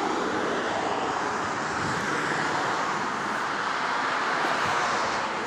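Aircraft flying over: a steady rushing drone that swells in and holds.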